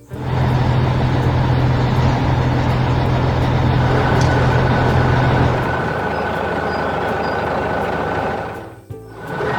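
Heavy construction vehicle's diesel engine running loud and steady, starting abruptly. Its deep hum falls away about six seconds in, and a thin steady whine joins partway through. The sound dips briefly near the end and then resumes.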